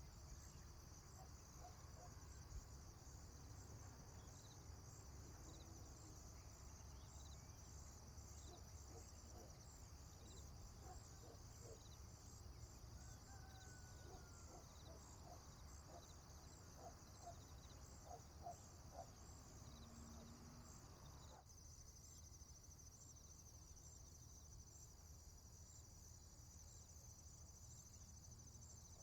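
Faint crickets chirping steadily over a low rumble of background noise, with scattered faint short animal calls through the first two-thirds. About two-thirds of the way through, the texture changes abruptly and the chirping turns into a faster, even trill.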